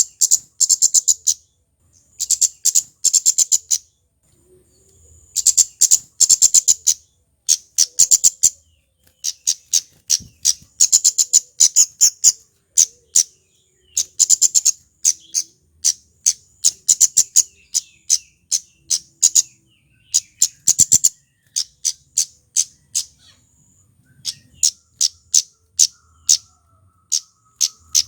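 Male kemade flowerpecker singing: rapid runs of sharp, very high 'tsit' notes in short bursts, with brief pauses between bursts.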